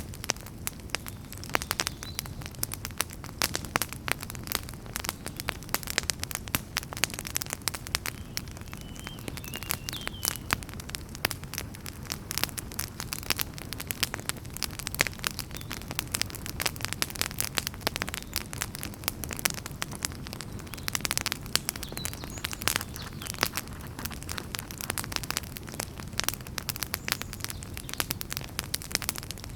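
Wood fire in a fireplace crackling and popping continuously, many sharp irregular pops over a steady low rumble of the flames.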